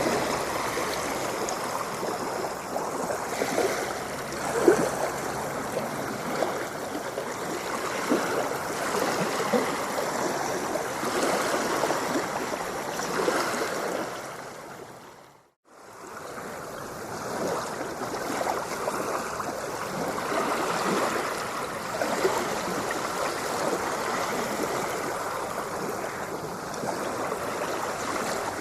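Ocean water washing and splashing in a steady, even rush with many small splashes. About halfway through it fades out to near silence and fades back in within a couple of seconds.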